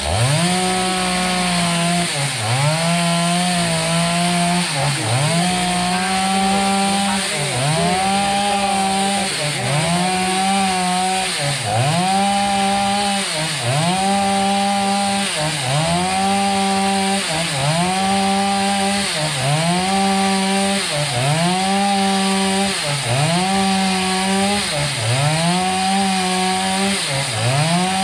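Two-stroke chainsaw running at high revs while cutting wood. Its pitch drops briefly and climbs back about every two seconds.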